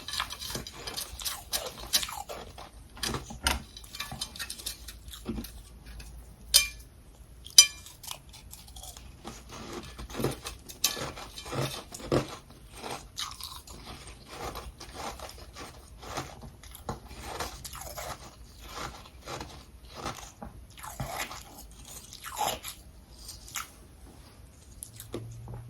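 Humidifier frost and crushed ice being bitten and chewed: a run of irregular crisp crunches, with two sharp, loud bites about six and a half and seven and a half seconds in.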